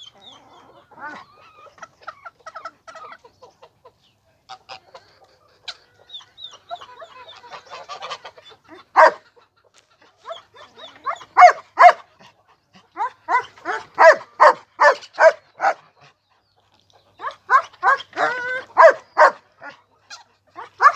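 Poultry calling: faint chatter at first, then loud, repeated calls a few a second, coming in two fast runs in the second half.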